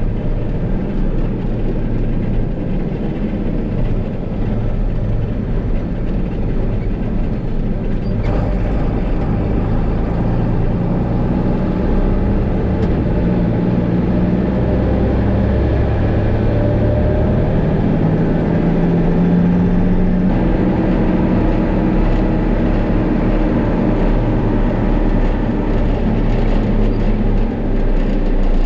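Diesel farm tractor engine running steadily under load while pulling a manure spreader, its low hum rising and falling slightly in pitch partway through.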